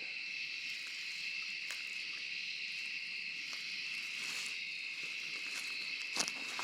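Steady chorus of night insects, a continuous high-pitched trill, with a short snap or knock near the end.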